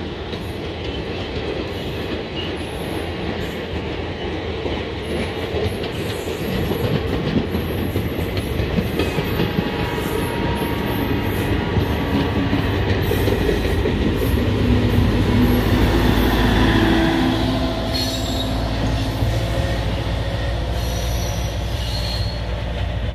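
Passenger train moving along a station platform: a steady rumble of wheels on rails, growing louder toward the middle and easing slightly near the end. A held tone joins in about halfway through.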